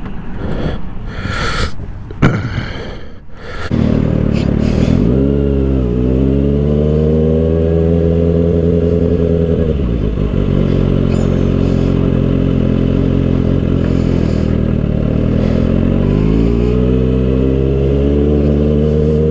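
A 2024 Kawasaki ZX-6R's 636 cc inline-four with an aftermarket M4 exhaust starting up about four seconds in after some clattering handling noise, giving a quick rev, then idling steadily; the engine note rises again near the end.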